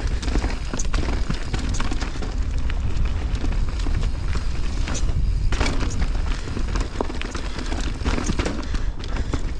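Wind rumbling on the microphone while riding a mountain bike downhill, with the bike rattling and clattering over rough, rocky ground.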